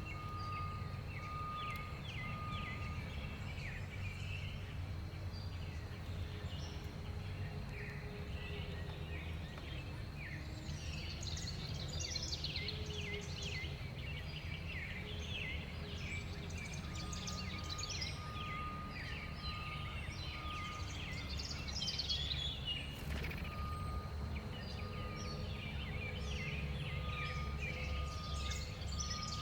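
Many small songbirds chirping and twittering at a backyard feeder, their short calls overlapping throughout, over a steady low hum. A run of short, even-pitched notes repeats near the start and again through the second half.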